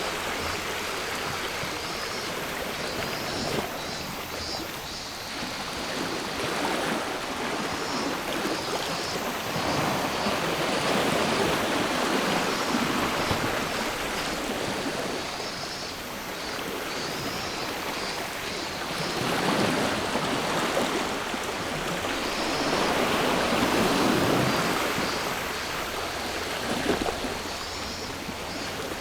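Sea waves washing onto the shore, swelling and ebbing in slow surges every several seconds. Faint cicadas buzz in the background.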